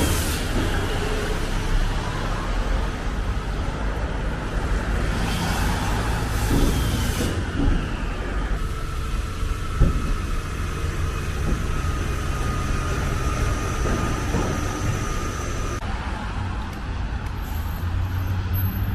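Road traffic on a city street: a steady low rumble of passing vehicles, with short hisses about five to seven seconds in and a steady whine from a passing vehicle for several seconds midway.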